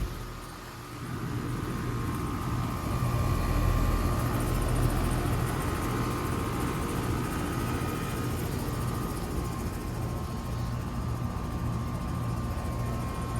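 Outdoor central air conditioner unit running: a steady low hum with a faint steady whine above it.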